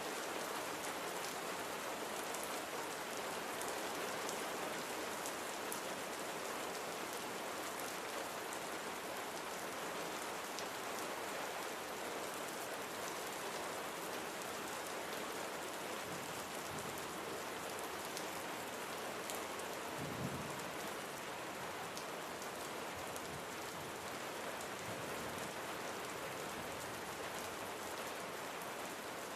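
Steady rain falling, with single drops ticking through the hiss, and one brief low thump about two-thirds of the way through.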